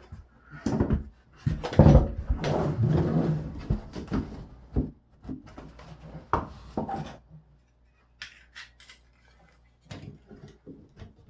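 Irregular knocks, scrapes and rubbing from hand tools and materials being handled during drywall patch work. The noise is busiest for the first seven seconds or so, then thins to a few faint clicks.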